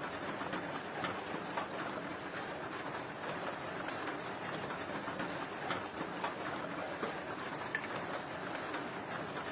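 Steady rain falling, with scattered sharp taps of drops.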